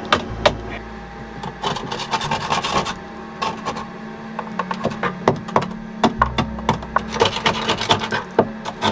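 Barnacles being scraped and knocked off the fibreglass recess of a catamaran's saildrive opening with a hand tool: irregular rasping scrapes and sharp clicks, over a faint steady hum.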